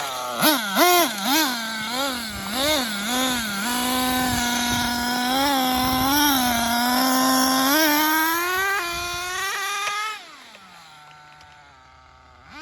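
Nitro RC monster truck's two-stroke glow engine (Dynamite Big Red) revving in quick throttle blips, then held at high revs in a steady run. About ten seconds in the throttle comes off, and the pitch and loudness fall away to a quiet low running note.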